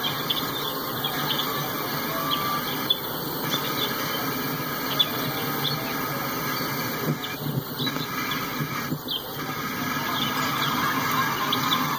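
Freight train of tank cars rolling through a grade crossing: steady rumble and clatter of steel wheels on the rails, with scattered high wheel squeals.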